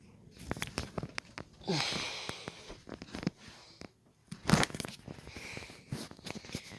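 Scattered clicks and short rustling handling noises, with a louder knock about four and a half seconds in.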